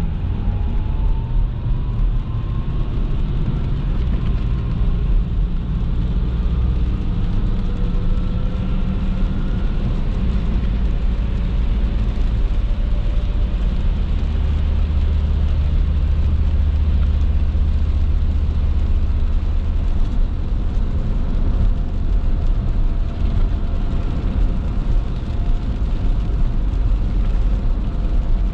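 Car driving on wet roads: steady engine and tyre noise, with the engine's pitch rising over the first ten seconds or so as it speeds up.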